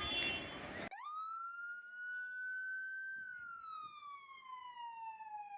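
Emergency-vehicle siren giving one wail: it sweeps up quickly, climbs slowly for about two seconds, then falls steadily in pitch. Before it, about a second of outdoor crowd noise cuts off abruptly.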